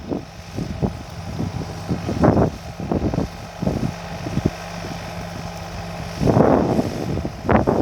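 Tractor engine running steadily, with irregular bursts of rushing noise over it, the strongest a little over six seconds in.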